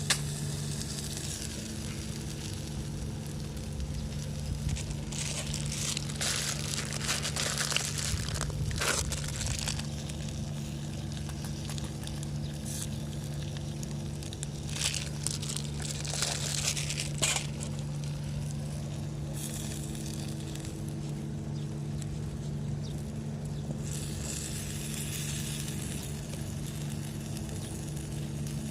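Irregular crackling and crinkling noises, in two clusters of a few seconds each, over a steady low hum.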